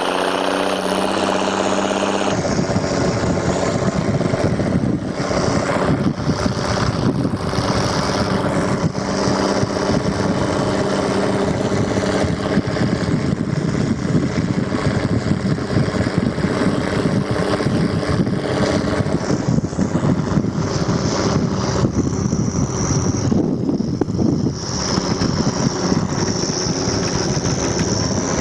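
A vehicle engine running steadily. About two seconds in it changes to a rougher, fuller running, with a low hum underneath.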